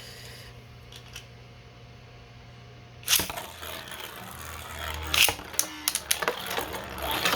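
Two 3D-printed plastic Beyblade spinning tops launched into the stadium about three seconds in, then spinning and clashing with a run of sharp clicks and hard hits.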